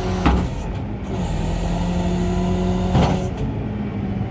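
Tow truck's engine running steadily, its pitch stepping down slightly about a second in, with a high hiss and two short sharp sounds, one near the start and one about three seconds in, as the tow rig is raised so the car is off the ground.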